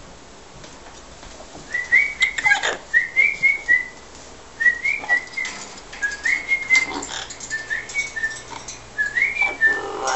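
Short rising whistled notes, two or three at a time, repeated in about six little phrases with pauses between, over a few faint knocks.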